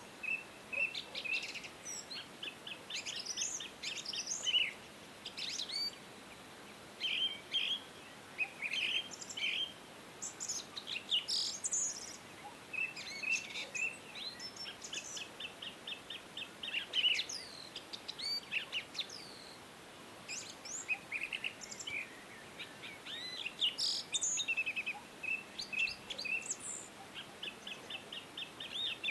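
Several songbirds chirping, with short calls and fast runs of repeated trill notes overlapping each other.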